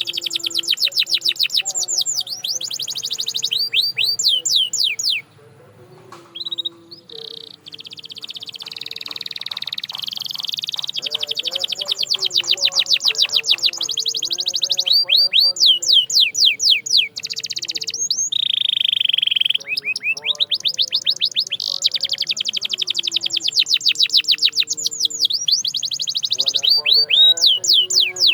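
Domestic canary singing long trills of rapid, evenly repeated high notes, each a quick pitch sweep, with a brief pause about five seconds in before the song resumes.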